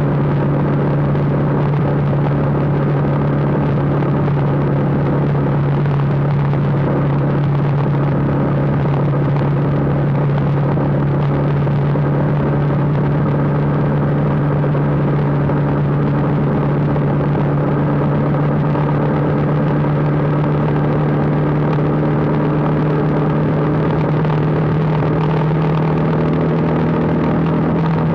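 Motorcycle engine running steadily at cruising speed, with wind and road noise. The engine's pitch rises slightly near the end.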